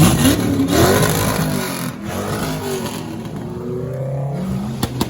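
Car engines revving and accelerating, their pitch rising in the first second and again later, with a few sharp cracks near the end.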